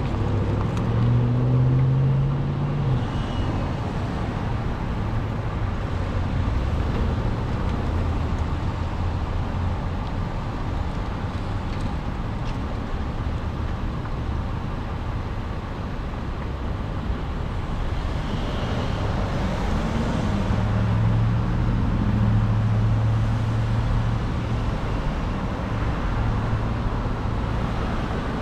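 Road traffic heard from a bicycle on the street: steady road noise, with a motor vehicle's engine hum passing in the first few seconds and again about two-thirds of the way through.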